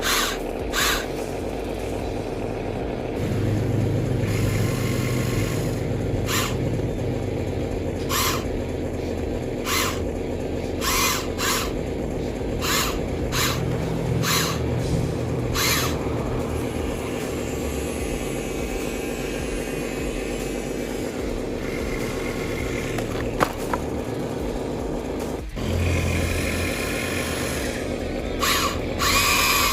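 Small electric motors and plastic gearboxes of radio-controlled construction models (RC truck, dump truck and excavator) whirring steadily. Short, sharp high sounds repeat many times through the first half and again near the end.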